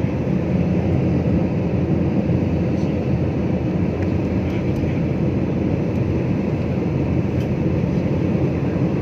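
Steady cabin noise of a jet airliner in flight, engine and airflow noise heard from inside the cabin as an even low rumble with a hiss.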